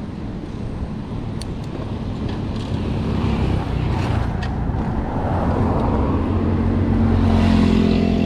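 Road traffic noise, with a motor vehicle's engine hum growing louder toward the end as it draws near.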